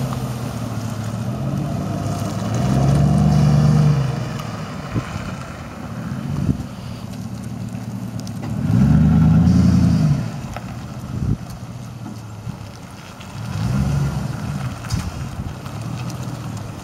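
A 2004 Chevrolet Silverado's 5.3-litre V8 running through a straight-piped exhaust with the muffler removed. It idles and is revved three times, each rev rising and falling back to idle, with a fourth rev starting near the end.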